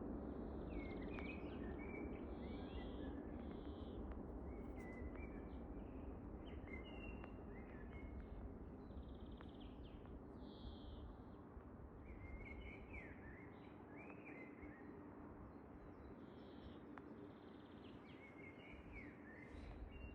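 Songbirds singing in spring, a run of short, varied chirps and warbled phrases one after another, over a steady low background rumble.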